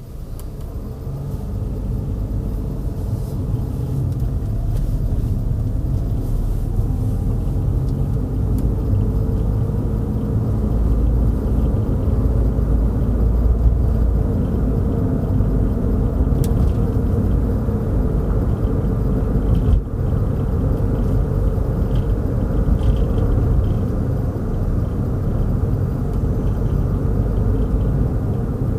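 A car driving on the road: a steady low rumble of engine and tyre noise that grows louder over the first few seconds, then holds.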